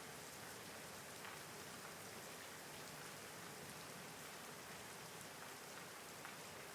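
Steady rain falling, an even hiss with a few louder drops ticking now and then; no thunder.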